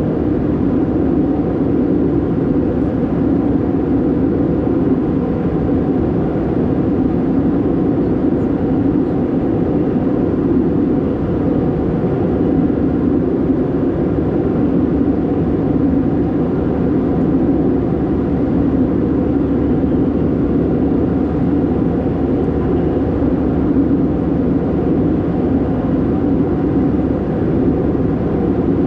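Steady cabin noise inside an Airbus A319-112 in flight: the constant rush of its CFM56 engines and the airflow, a deep even drone without change.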